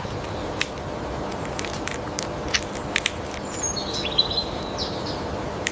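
A bird chirps briefly about four seconds in, over steady outdoor hiss, with irregular sharp clicks or crunches throughout.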